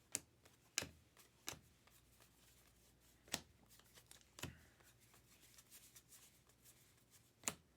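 Trading cards being handled and flipped through by hand: a handful of short, sharp card flicks with quiet gaps between them.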